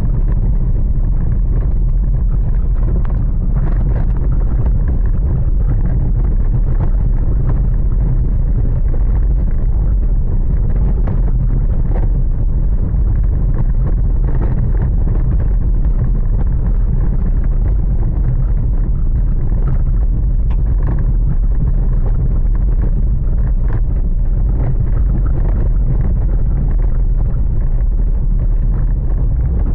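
Strong storm wind buffeting the microphone in a loud, steady low rumble, with faint patters and gusts above it.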